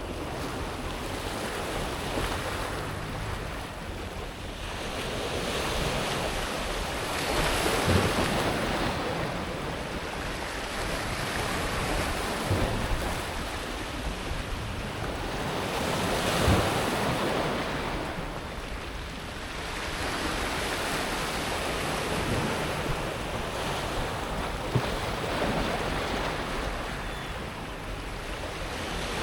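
Mediterranean waves breaking on a pebble beach and washing back over the smooth stones, the wash swelling and fading in slow surges, the loudest about eight and sixteen seconds in.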